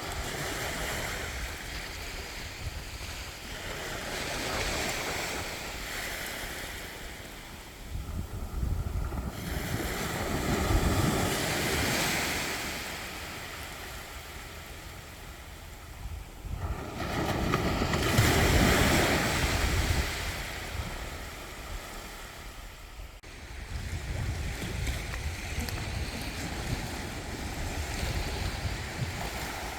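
Sea waves breaking and washing up a beach, surging about every six to seven seconds, the largest near the middle of the stretch, with a quieter wash in between.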